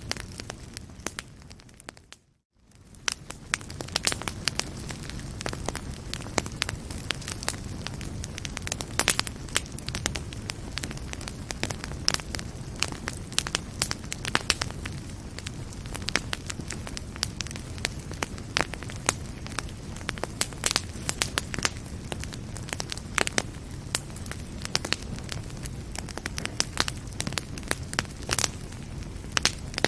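Wood fire burning in a fireplace, crackling and popping steadily over a low rumble. About two seconds in it fades briefly to silence, then fades back up, as at a loop join.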